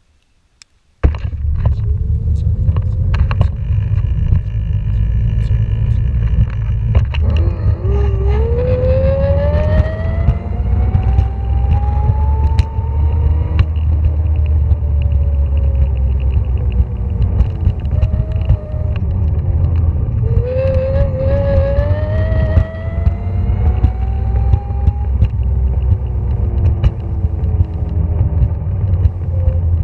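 An electric motor whining, rising in pitch as it speeds up and falling as it slows, twice, over a loud steady rumble of motion. It starts about a second in, after a moment of near silence.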